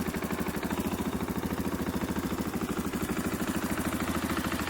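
KTM 500 EXC's single-cylinder four-stroke thumper engine idling with a steady, rapid beat, just after being started for the first time.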